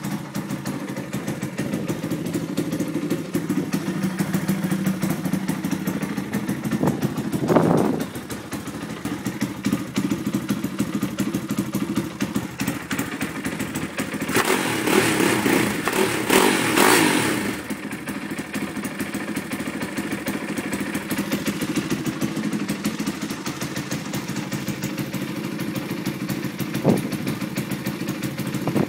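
Stomp pit bike's 140cc single-cylinder four-stroke engine idling through a loud race exhaust. It is blipped briefly about a quarter of the way in, revved twice in quick succession around the middle, and given one quick blip near the end.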